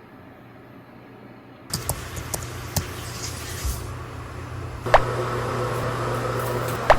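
Sharp clicks and light knocks of small objects being handled, the loudest two about five seconds in and near the end, over a steady low hum.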